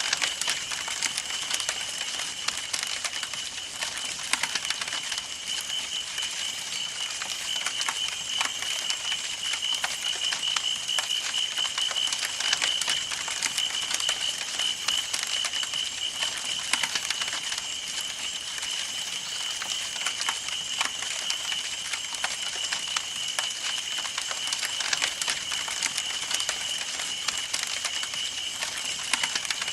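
Campfire burning: wood crackling and popping in a dense, irregular stream of small snaps over a soft hiss, with a steady high-pitched tone running underneath throughout.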